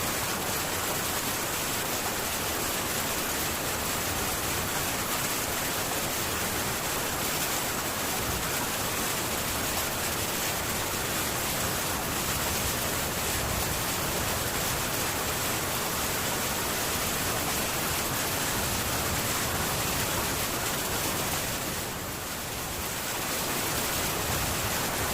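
Heavy rain on a metal tin roof, a steady dense hiss that dips briefly near the end.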